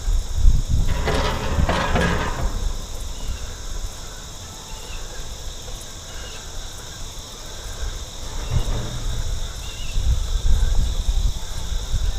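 Insects droning steadily in a high pitch, with wind rumbling on the microphone that swells in the first couple of seconds and again near the end.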